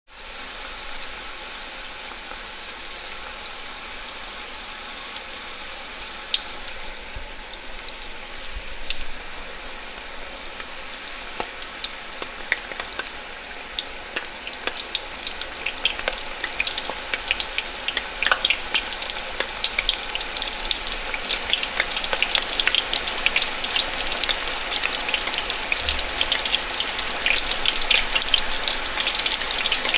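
Food frying in a pan, a steady sizzle with sharp crackles that grow louder and denser from about halfway through as the pan heats up.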